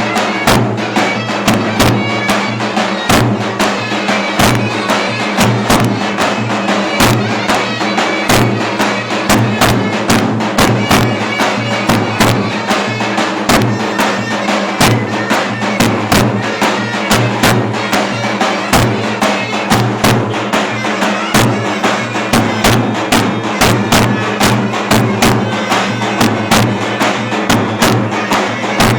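Live Turkish folk dance music: a clarinet playing a reedy melody over steady, regular strokes of a davul drum.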